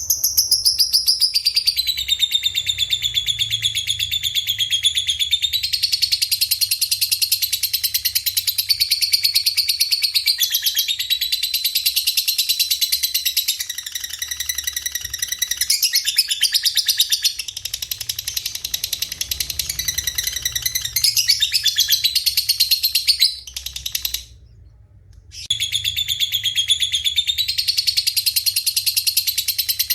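A birdsong training recording combining canary, cililin and lovebird song: dense, continuous high-pitched chirping and fast rolling trills with falling sweeps. It drops out for about a second a little past the middle, then resumes.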